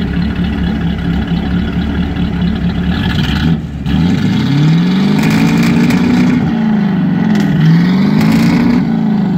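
Off-road 4x4's engine running steadily, then, after a brief dip about four seconds in, revving up and back down twice.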